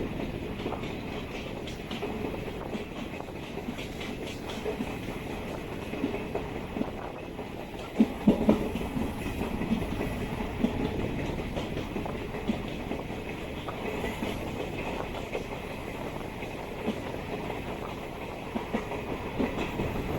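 DEMU train running along the track, its wheels clacking over rail joints, with a few louder knocks about eight seconds in.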